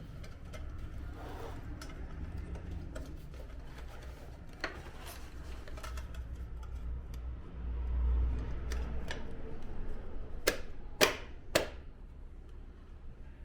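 Light clicks and taps of air-conditioner indoor-unit parts being handled and fitted back together, with three sharper clicks in quick succession near the end.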